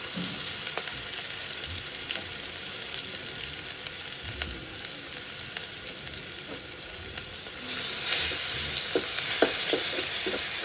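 Hot oil sizzling in an aluminium pot with fried onions and spice powders, a steady hiss that gets louder about eight seconds in. Near the end a wooden spatula scrapes the pot in quick strokes as the spices are stirred in.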